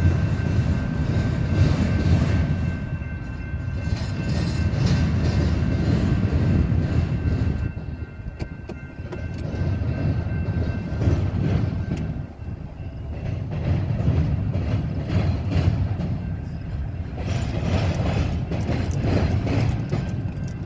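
Union Pacific double-stack container freight train rolling past: a continuous low rumble of the cars with wheels clacking over the rails. Two steady high ringing notes sound through the first seven seconds or so, then stop.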